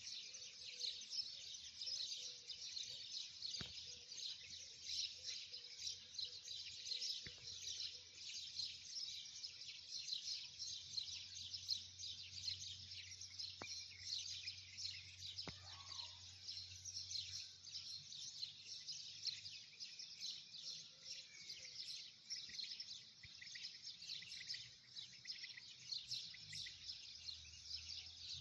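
Many small birds chirping at once in a dense, continuous chorus, with a few faint clicks.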